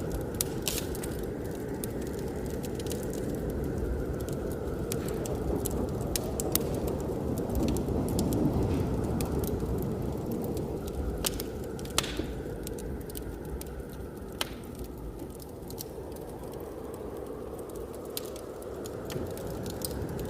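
Wood fire crackling, with many sharp pops and snaps, over a steady low roar of blizzard wind that swells briefly about eight seconds in.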